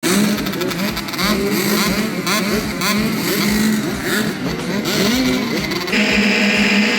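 Several motocross dirt bike engines revving, their pitch rising and falling and overlapping as the bikes accelerate and shift. About six seconds in, music comes in over them.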